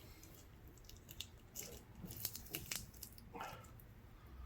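Faint scattered crackles and clicks of a plastic spudger prying a Samsung Galaxy A50's battery away from its strong adhesive, busiest in the middle.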